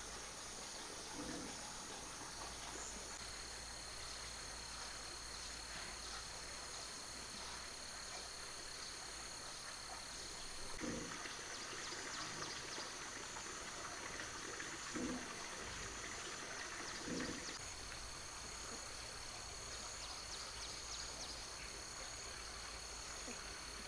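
Insects chirring steadily in several high, unbroken tones over a faint hiss, with a few soft knocks in the middle.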